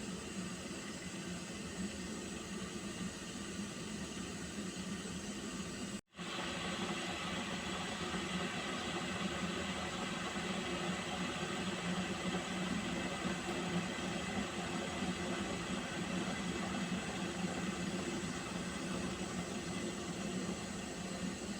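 Pot of water heating on a stove, giving a steady hiss over a low hum. The sound cuts out completely for an instant about six seconds in, then returns slightly louder.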